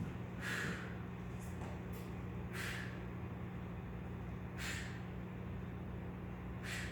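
A man's sharp breaths out with each weighted pull-up, about one every two seconds, four in all, over a steady low hum.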